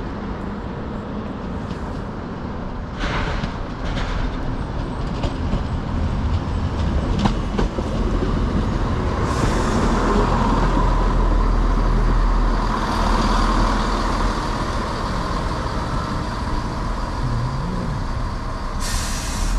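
Two-carriage diesel passenger train pulling into the station, its diesel engine rumbling steadily, with a few short hisses along the way.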